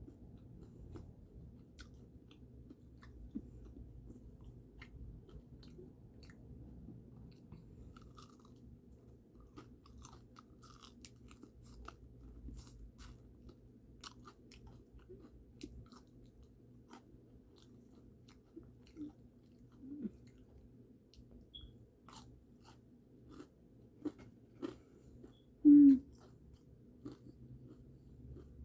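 Close-up chewing and biting of crispy Popeyes fried chicken: crunching, wet mouth clicks and smacks throughout, with one brief much louder mouth sound near the end.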